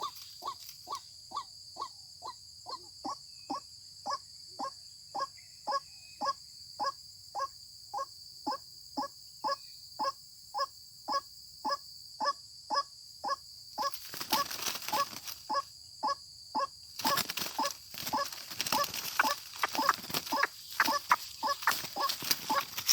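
White-breasted waterhen (ruak-ruak) calling in a steady series of short repeated notes, about two a second, over a steady high-pitched drone. From about fourteen seconds in, a rustling noise joins in and the calls become louder and more jumbled.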